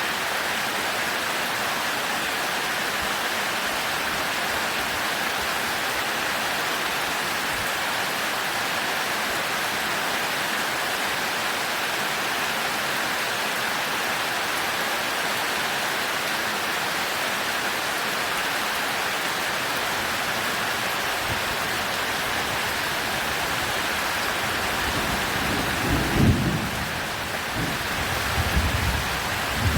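Heavy rain pouring steadily. Thunder rumbles in during the last several seconds, with a louder clap about 26 seconds in and more rolling rumble near the end.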